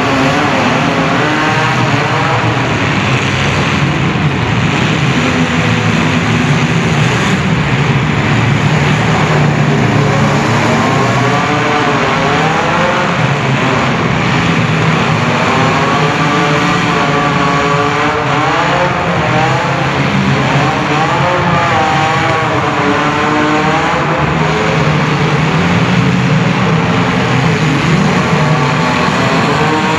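Several compact car engines revving hard at once, their pitch rising and falling over and over, with a steady din of mixed engine noise.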